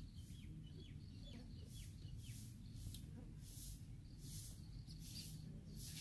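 Faint bird chirps, a few short downward-sliding notes in the first couple of seconds. They sit over a high hiss that pulses on and off a little more than once a second, and a low rumble.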